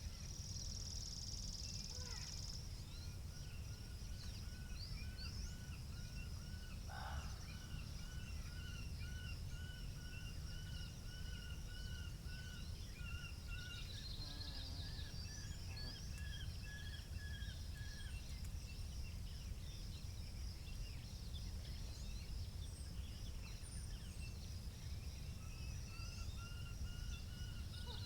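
Spring outdoor ambience: a steady low rumble of wind under several small songbirds chirping, each repeating short notes in long even runs at a few different pitches, with a brief louder call about seven seconds in and a quick trill about halfway through.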